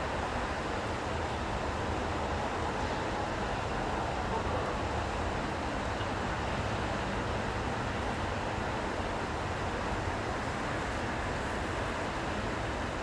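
Steady city street ambience: a continuous wash of traffic noise with no single sound standing out.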